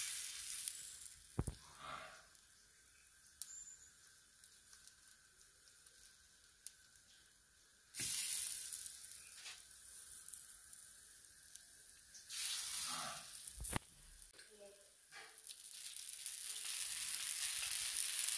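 Batter-coated bread pieces sizzling on a hot cast-iron dosa griddle. The sizzle flares up sharply about eight and twelve seconds in and builds again near the end, with a couple of light knocks.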